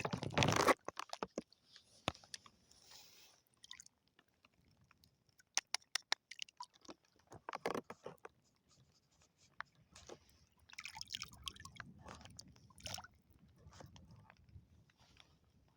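Irregular crunches and sharp clicks of shells and coral rubble being disturbed. There is a loud dense crunch at the start, then scattered clicks, and another cluster of crunches late on.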